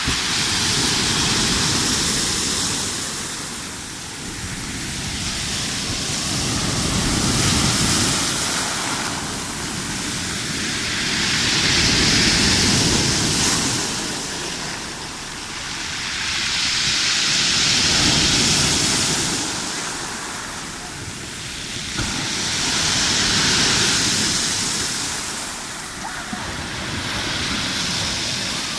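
Rough Black Sea surf: waves breaking and washing in on the shore, swelling and fading in slow surges about every five to six seconds.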